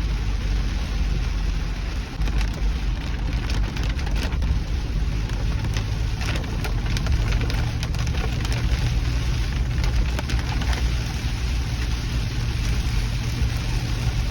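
Mahindra Thar driving in heavy rain: a steady low engine drone and road noise, with rain hissing and scattered raindrop ticks.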